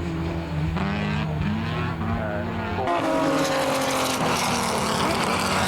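Racing car engines at high revs, rising and falling in pitch through gear changes. About three seconds in, a louder rush of engine and tyre noise as race cars go past close by.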